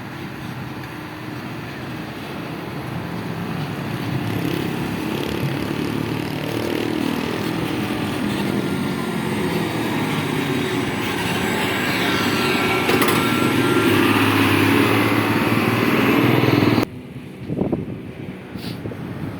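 Dump truck engine running under load, its note and loudness rising steadily as it draws closer, then cut off abruptly near the end.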